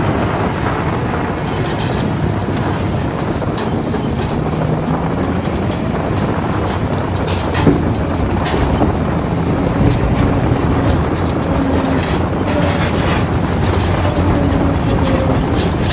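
Heavy earthmoving machine running steadily, its engine rumbling with a faint drifting whine over it. A few sharp metallic knocks come through, the clearest about halfway.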